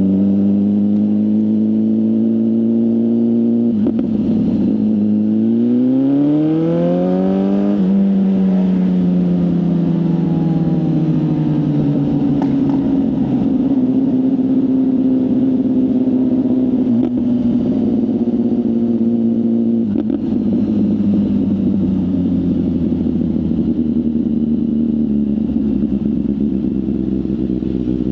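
BMW S1000RR inline-four sportbike engine on a full exhaust system, heard from the rider's seat. It runs steadily, then climbs in pitch for about four seconds under acceleration, drops suddenly near the eight-second mark as the next gear goes in, and then falls slowly in pitch before settling at a steady note.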